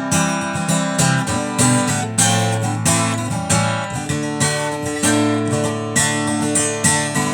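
Acoustic guitar strumming chords in a song's instrumental passage between sung lines.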